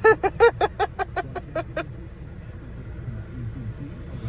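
A burst of laughter, a quick run of about ten 'ha's that fade out within two seconds, followed by the steady low rumble of a car moving on the road.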